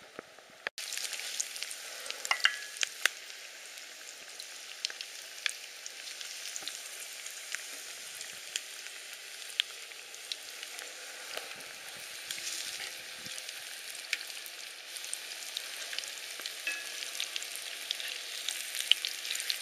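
Breaded grouse breast strips frying in hot oil in a cast-iron skillet: a steady sizzle with many scattered pops and crackles, starting abruptly just after the beginning.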